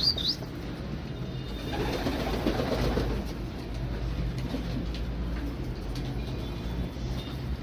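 Domestic pigeons cooing, loudest between about one and a half and three seconds in, over a steady low rumble. A short high chirp sounds right at the start.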